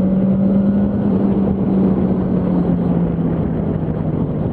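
Yamaha R1 sport bike's inline-four engine pulling at a steady pitch while riding, heard from the rider's seat over a steady rush of noise; the note drops a little about three seconds in.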